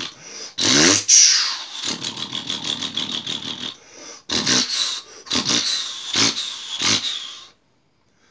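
Duramax diesel pickup engine being revved: a rising rev about a second in, then a string of sharp throttle blips between stretches of rough running, before it cuts off suddenly near the end.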